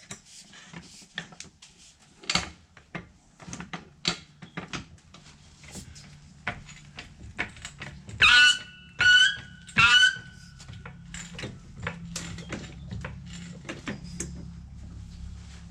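Floor jack being set in place and pumped: a run of clicks and knocks, then three loud squeaks about a second apart.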